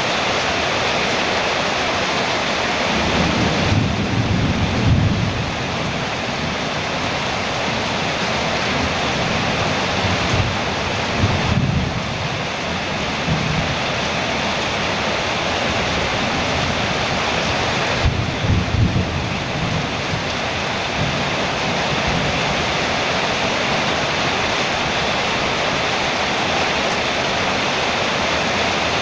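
Rain falling on a metal roof, a steady hiss, with low rolls of thunder rumbling under it three times.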